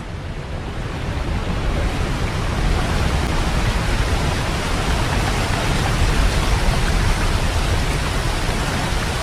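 Waterfall on the Yellowstone River: a steady rush of falling water, swelling over the first two or three seconds and then holding.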